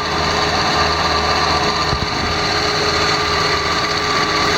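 2001 Ford Escape engine idling with the A/C compressor clutch engaged, and a clicking noise over the steady engine hum. The clicking comes only while the clutch is engaged; the owner puts it down to the A/C clutch, though he is not sure it isn't the belt tensioner.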